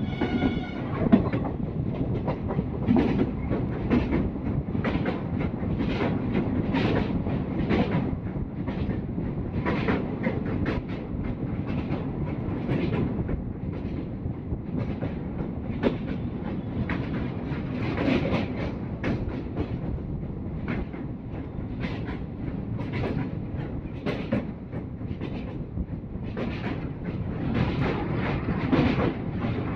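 Express passenger train running at speed over a riveted steel girder bridge, heard from an open coach doorway. A steady rumble runs under irregular sharp clattering clicks of the wheels over rail joints.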